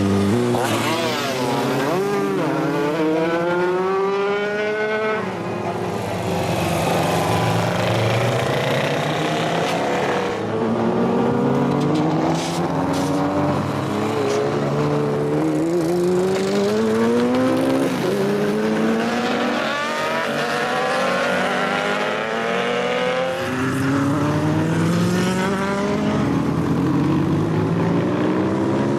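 Vintage motorcycle engines revving up again and again, the pitch climbing for a few seconds and then dropping, several times over.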